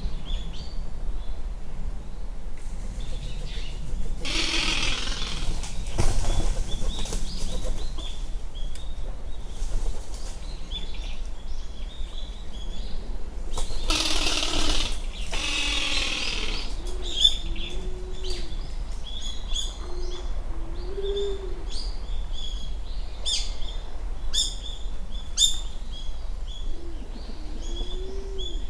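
Japanese wood pigeon (Columba janthina) giving its guttural rattling call 'garararara', twice: once about four seconds in and again about ten seconds later, each lasting two to three seconds. Small birds chirp throughout.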